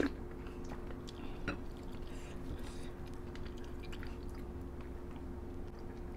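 Chewing and small mouth clicks of people eating rice and curry by hand, over a steady low hum.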